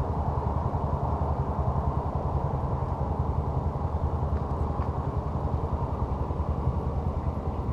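An engine idling steadily, a low rumble that holds even throughout.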